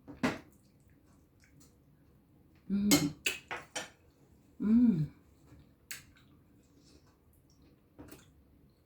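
Eating at the table: a few sharp clinks of a spoon against a bowl of rice porridge, with two short hummed vocal murmurs, the second falling in pitch.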